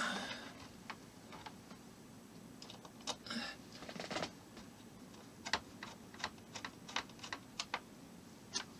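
Light, irregular clicks and taps of small model-kit parts being handled as a bracket is fitted into place, with a couple of short scraping sounds midway.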